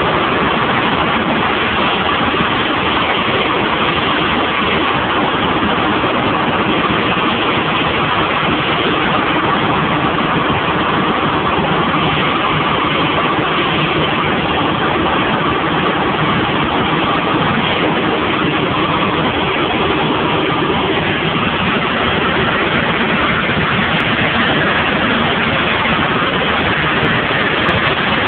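Cessna 172 light aircraft in flight, its piston engine and propeller running at a steady cruise setting, heard from inside the cabin as a loud, unchanging drone.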